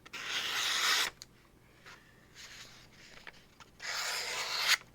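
A knife edge drawn in rasping strokes, each about a second long: a strong stroke at the start, a faint one midway and another strong one near the end.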